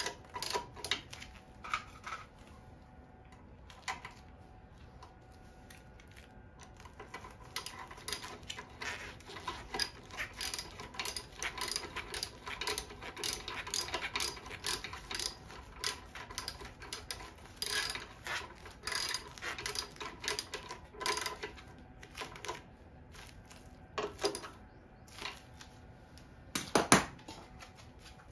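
Irregular small metallic clicks, clinks and taps, like hand tools and engine parts being handled during repair work, with the sharpest knock about 27 seconds in.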